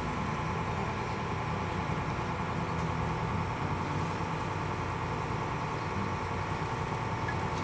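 Small ferry's diesel engine running steadily, an even drone with no change in pitch.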